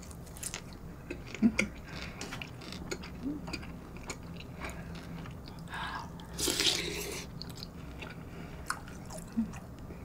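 Close-miked chewing and biting of battered fried food (fried eggplant), with small wet mouth clicks. About six and a half seconds in there is a louder noisy slurp as a spoonful of stew goes into the mouth.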